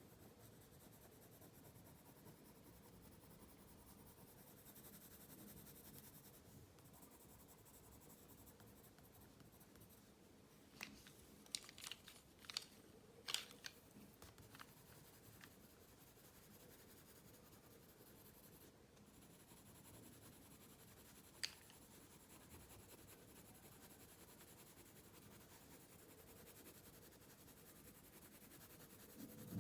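Faint pencil strokes on paper over quiet room tone. A quick run of sharp ticks comes about eleven seconds in, and a single tick about twenty-one seconds in.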